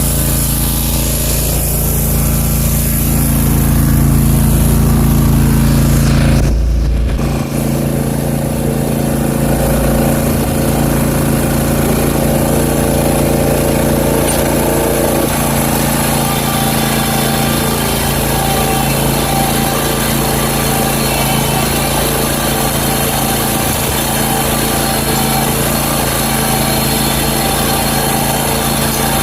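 Zero-turn riding mower's engine running steadily, with a brief dip in the sound about seven seconds in.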